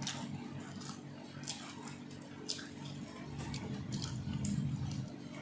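Close-up eating sounds: a person chewing food, with scattered wet mouth clicks.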